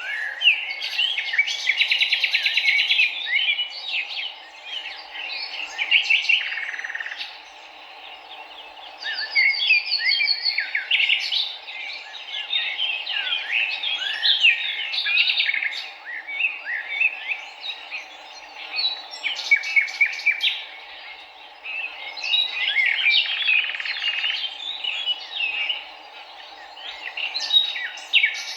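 Many songbirds chirping and trilling at once in busy bouts, with short lulls between them, over a steady low rush of flowing river water.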